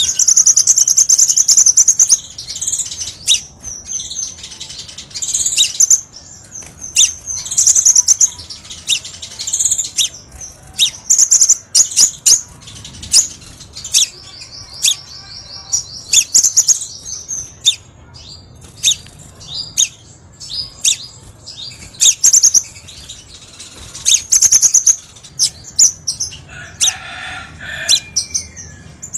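Crimson sunbird song: very high, rapid chirping trills and sharp ticking chips in short bursts every second or two, including a fast rattling trill midway. This is the kind of call recording used as a lure and for song-training birds.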